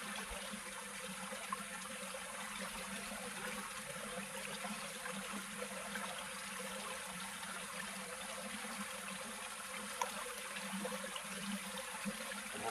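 Steady rush of flowing water, an even, unbroken wash of noise.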